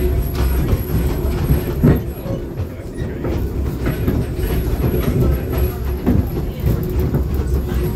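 Passenger car of a steam excursion train rolling along the track, heard from on board: a steady low rumble and rattle, with wheel knocks over the rail joints, sharpest about two seconds in and again near six seconds.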